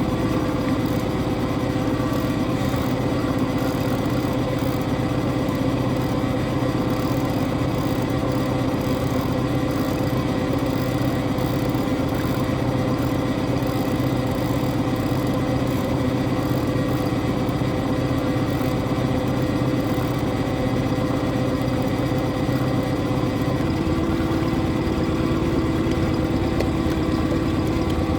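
Boat engine running steadily at low speed, its note shifting slightly higher about 24 seconds in.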